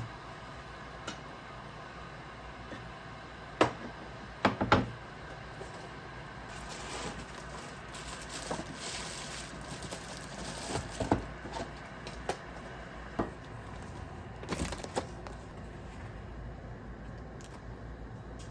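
Handling noises: a few sharp knocks and clatters, with a few seconds of hissing in the middle and scattered clicks after it.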